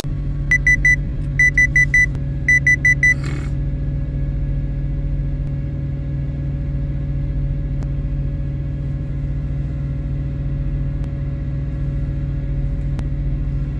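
Semi truck's diesel engine idling steadily. In the first three seconds there are three sets of rapid high electronic beeps, about a second apart, and then a brief hiss.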